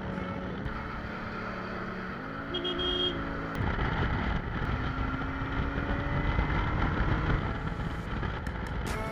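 Benelli TNT 600GT's inline-four engine and exhaust on the move. About three and a half seconds in it gets louder, and the engine note then climbs slowly as the bike accelerates.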